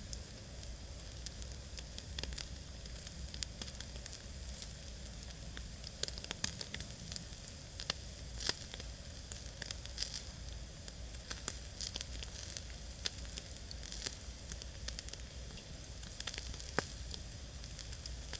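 Kababs sizzling over a campfire: a steady hiss of frying meat broken by frequent sharp pops and crackles.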